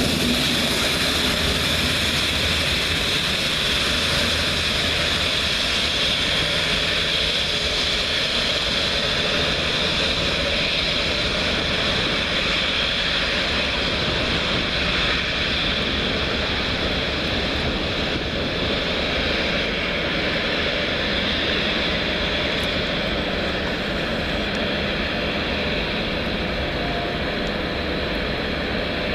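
Steady train running noise, a continuous rumble and hiss that eases slightly towards the end.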